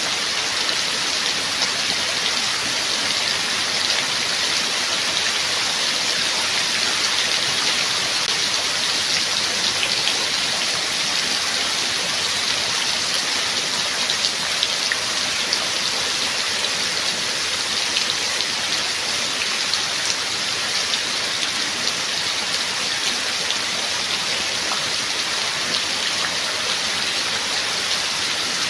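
Steady heavy rain falling, a dense even hiss with scattered sharper drop ticks and no change in intensity.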